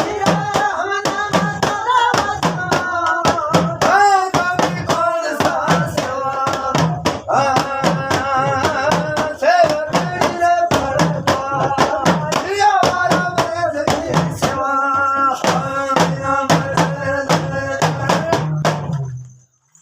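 Rajasthani folk devotional song performed live: a sung melody over instruments and a steady beat of sharp percussive strikes, stopping abruptly near the end.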